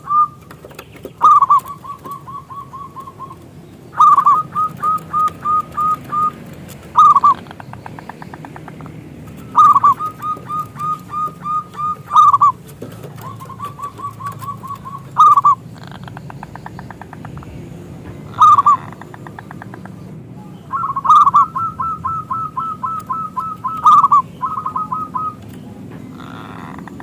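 Zebra dove (perkutut) cooing: a run of phrases of quick, evenly repeated notes, each phrase opening with a louder note, coming every two to three seconds over a low background hum.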